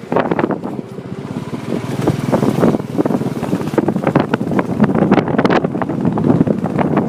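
Wind buffeting the microphone on a moving Royal Enfield motorcycle, in uneven gusts, with the engine running underneath.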